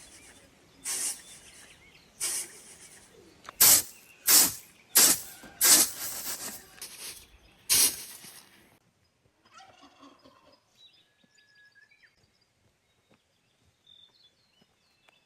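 Turkeys gobbling, about seven loud short gobbles in the first half. After about nine seconds they stop, leaving a few faint bird chirps.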